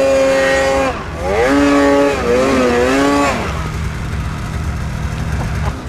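Snowmobile engine running at high revs. Its pitch dips about a second in, climbs again and wavers under throttle, then falls to a lower, steadier run for the last couple of seconds.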